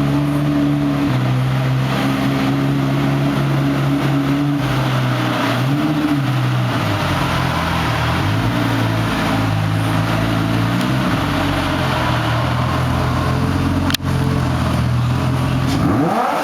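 Twin-turbo Lamborghini Gallardo V10 running steadily at low revs, its pitch shifting slightly a few times. There is a sharp click about 14 seconds in, and a quick rev starting near the end.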